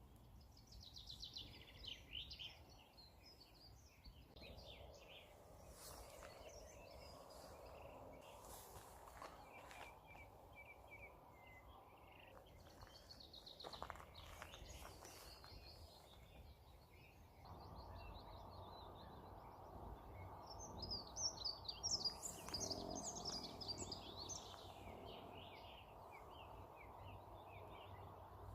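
Songbirds singing in the evening: scattered, quick high-pitched phrases and chirps, busiest near the start and again in the last third. A faint, steady background rush runs beneath the song and gets louder twice, about four seconds in and again past the halfway point.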